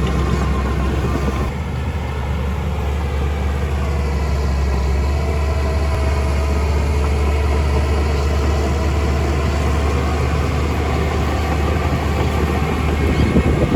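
Large diesel engine of heavy earthmoving machinery running steadily with a deep hum.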